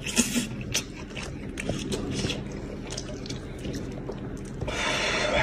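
Wet chewing and lip-smacking of a man eating braised goat's head meat, with many short clicks and smacks, and a longer, louder wet sound near the end.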